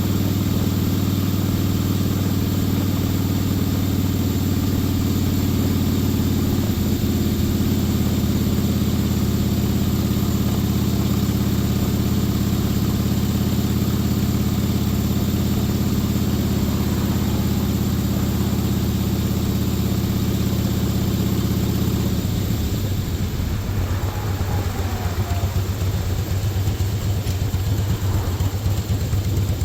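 A vehicle engine running at a steady speed, its even low hum changing to a rougher, noisier rumble about 22 seconds in.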